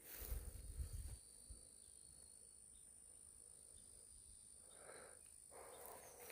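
Near silence: faint outdoor ambience with a steady, faint high-pitched hiss, and a brief low rumble in the first second.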